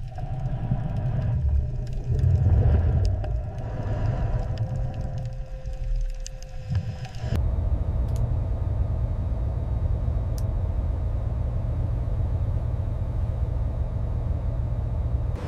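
A steady low rumble that changes character abruptly about seven seconds in.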